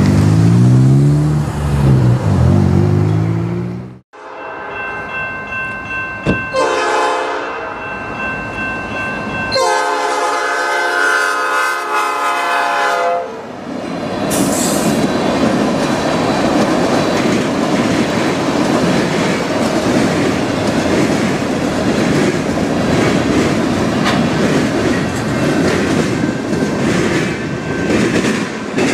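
A car drives over a railroad crossing with the crossing bell ringing. After a sudden break, a train horn sounds two long blasts, the second longer. Then freight cars roll steadily past with a clickety-clack of wheels on rail joints.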